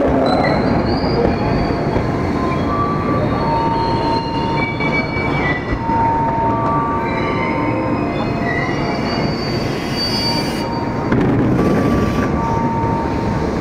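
Electric commuter train pulling into a station platform and slowing to a stop, with a rumble and several high squealing tones that come and go as it brakes.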